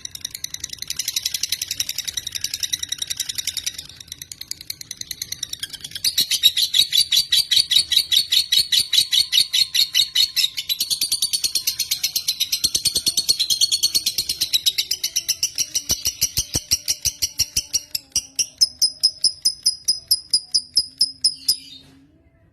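Lovebird (Agapornis) singing a long, unbroken chattering trill of rapid high chirps, many a second, in long bouts that break briefly twice and stop near the end.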